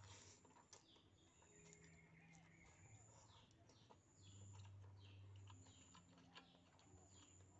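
Faint bird calls: short falling chirps repeated over and over, with a low steady hum coming and going underneath and a few soft clicks.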